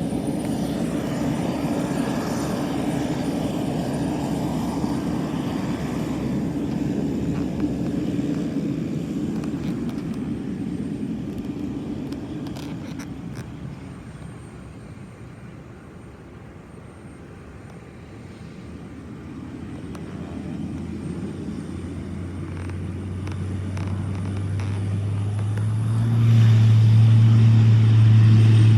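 Pilatus PC-12/45's single turboprop engine and propeller during takeoff: the sound fades away about halfway through, then builds again into a loud, steady low propeller drone that is loudest near the end.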